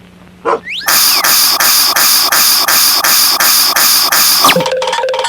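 Cartoon sound effects: a short rising whistle, then loud hissing strokes repeating about three times a second, then a steady hum-like tone near the end.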